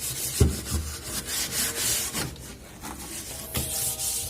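Scrubber pad loaded with Vim dishwashing cleaner being rubbed back and forth over the fridge's inner surfaces in quick scratchy strokes, with a soft knock about half a second in and another near the end.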